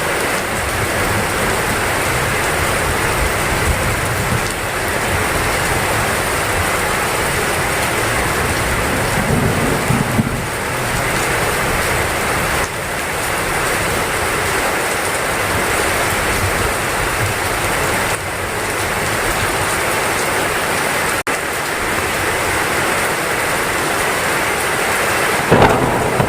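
Heavy rain pouring steadily, with a low rumble of thunder about ten seconds in and a short, loud crack near the end.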